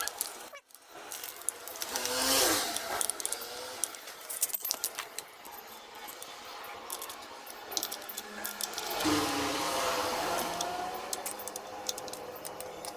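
Metal hand tools and small engine parts clinking and rattling during reassembly of a motorized bicycle's engine, with many short clicks and two longer stretches of scraping.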